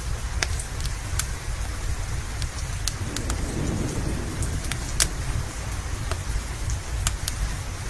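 Steady rain with a low rumble underneath, and the sharp irregular pops and crackles of a wood fire in a fireplace, about a dozen in a few seconds.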